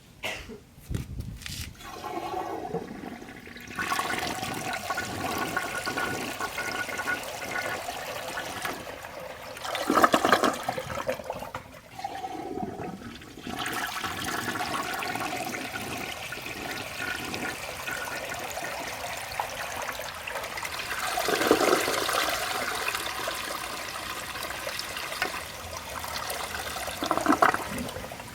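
Vintage 1986 Lamosa Atlas toilet flushing: water rushes and keeps running for many seconds. It is loudest about ten seconds in, with further surges near the end.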